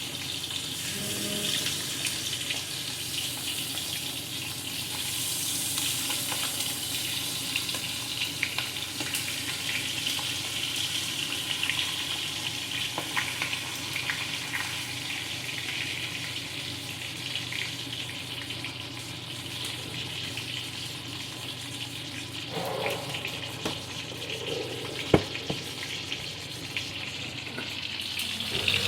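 Seasoned chicken drumsticks pan-frying in hot oil: a steady sizzle with scattered crackles, and one sharp knock near the end.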